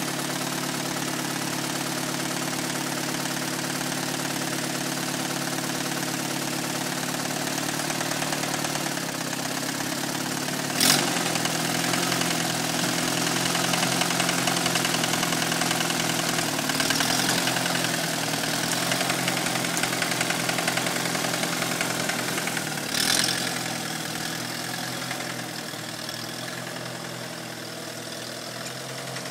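Tractor engine running steadily, its pitch shifting a little as it works to get free. There is a sharp knock about eleven seconds in and another about twenty-three seconds in, after which the engine runs a little quieter.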